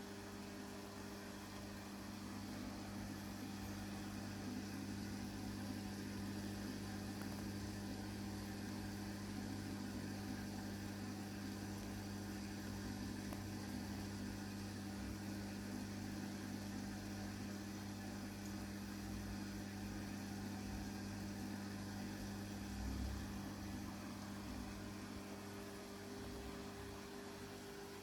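Aquarium pump running with a steady low electrical hum over a faint hiss, with one brief low bump about 23 seconds in.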